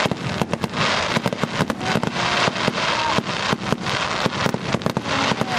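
Aerial fireworks bursting overhead: a fast, irregular run of bangs and crackling pops.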